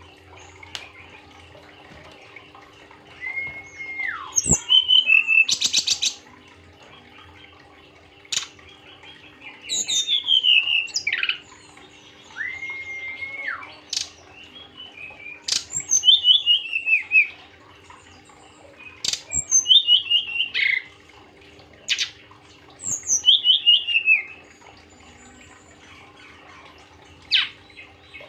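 A jungle flycatcher (SRDC, Cyornis) singing. Its clear whistled phrases come every few seconds: some are held level and then drop, others slur downward in quick runs, and one buzzy rattling note comes about five seconds in. A faint steady hum runs underneath.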